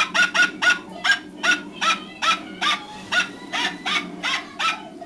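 An animal calling over and over in short, sharp, evenly spaced calls, about three a second.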